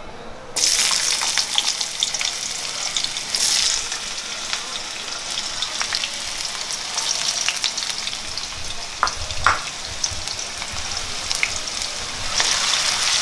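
Diced potatoes sizzling in hot oil tempered with mustard seeds and cumin in a kadhai: the sizzle starts suddenly about half a second in as the potatoes go in and keeps on steadily, with a few light clinks of a metal spoon stirring against the pan, growing louder near the end.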